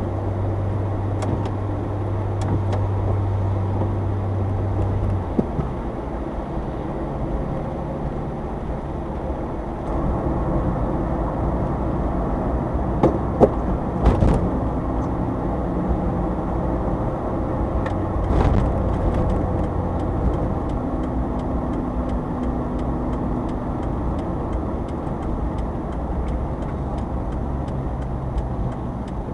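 Subaru Sambar kei vehicle driving, its engine and road noise heard from inside the cab. The engine note steps and changes pitch a few times, with a few sharp knocks from bumps in the middle.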